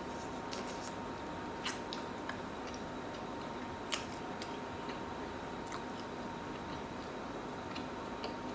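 A person chewing and eating close to the microphone: scattered small clicks and smacks, the sharpest about four seconds in, over a steady faint hum.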